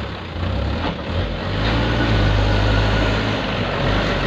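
Diesel engine of a small dump truck working hard under load, its note climbing about half a second in and again near two seconds in, then easing slightly near the end.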